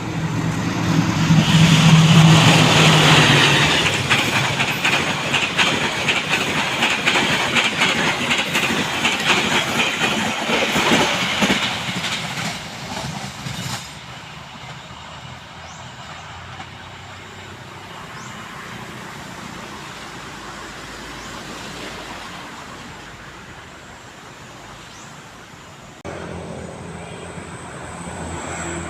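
A diesel-hauled train passing at speed over railway switches. The locomotive's engine is loudest about two seconds in, followed by about ten seconds of rapid wheel clatter over the points and rail joints that fades out around fourteen seconds in. A quieter steady rumble follows.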